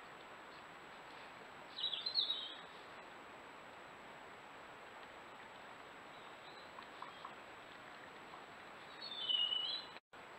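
Two short chirping bird calls, one about two seconds in and one near the end, over a steady hiss from the trail camera's microphone.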